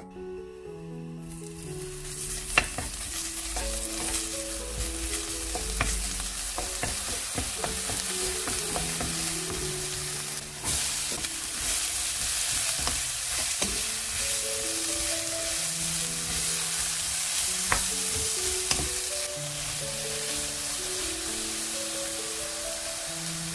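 Julienned carrots and minced garlic sizzling in hot oil in a nonstick wok as they are stir-fried with a wooden spatula. The sizzling starts about a second in, and a few sharp knocks from the spatula against the pan stand out.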